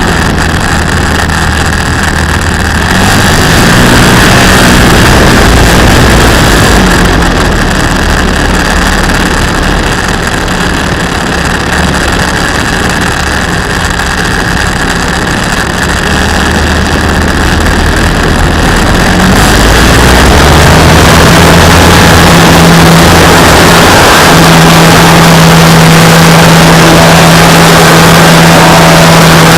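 Radio-controlled model airplane's motor and propeller running loud and steady, the pitch shifting with the throttle and rising to a higher, louder note about twenty seconds in.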